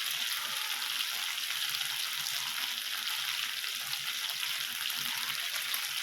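Chicken kebabs sizzling on an indoor electric grill: a steady frying hiss with fine crackling.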